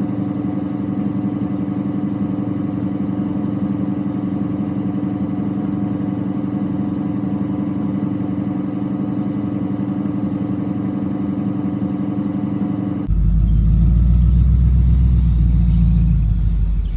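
Diesel engine running steadily at an even speed. About 13 seconds in the sound changes abruptly to a louder, deeper engine drone, which eases off near the end.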